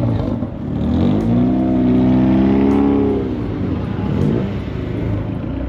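Car engine revving: it climbs about a second in, holds high for about two seconds, then drops back down to a lower, uneven run.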